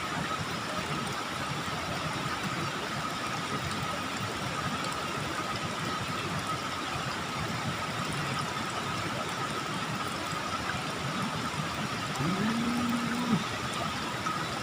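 Steady rushing of water flowing in a small ditch, with a faint steady high tone running through it and a brief low hum near the end.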